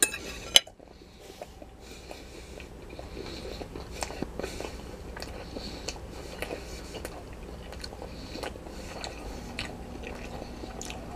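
A person chewing a mouthful of pineapple sausage with barbecue sauce close to the microphone: faint, irregular mouth clicks. Two sharp clicks in the first second, the second the loudest.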